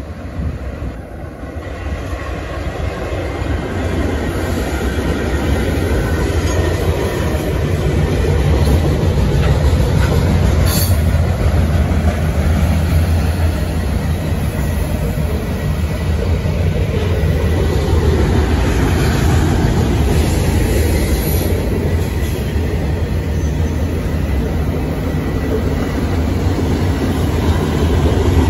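Freight train cars rolling past on curving track: a steady rumble of wheels on rail that builds over the first several seconds and then holds. A single sharp click comes about eleven seconds in.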